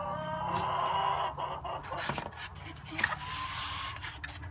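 Domestic hen calling: a drawn-out call for the first second and a half, then a shorter call later, with a couple of sharp knocks between.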